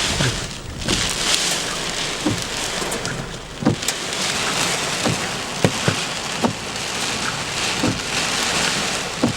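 Steady heavy rain with scattered, irregular sharp knocks of hailstones striking the car.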